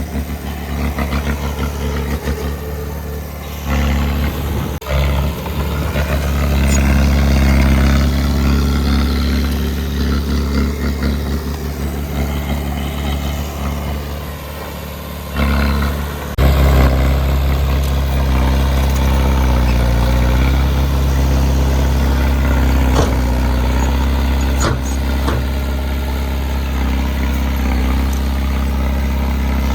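Heavy earthmoving machine's engine running steadily, growing louder about four seconds in and again about sixteen seconds in, with a few short knocks.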